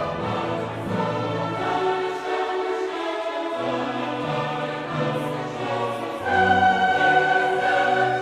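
Classical choral music with orchestra: voices holding long sung notes that change every second or so, swelling louder about six seconds in.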